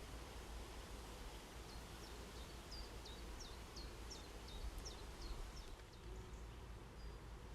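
A bird calling a quick run of short, high, falling notes, about four a second, over a faint, steady low rumble.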